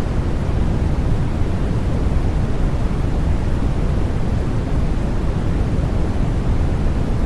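Continuous white noise for lulling a newborn to sleep, steady and unchanging, weighted toward the deep end so that it sounds more like a low hush than a hiss.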